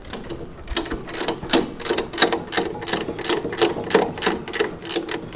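Rapid, regular mechanical clicking, about five clicks a second, over a steady low hum.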